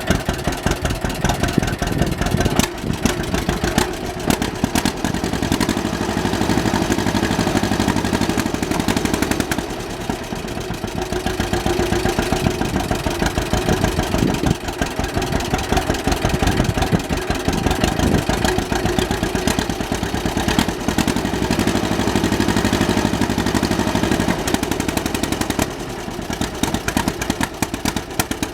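A John Deere Model B tractor's two-cylinder engine running, its exhaust popping in a rapid, even beat.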